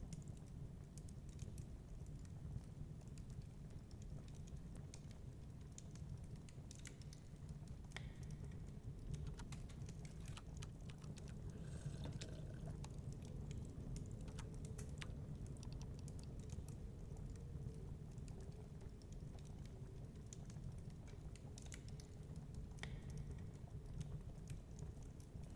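Faint fireplace crackle: wood fire snapping and popping in irregular sharp clicks over a steady low rumble.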